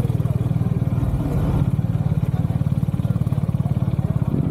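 Motorcycle engine running close by, a steady fast low pulsing.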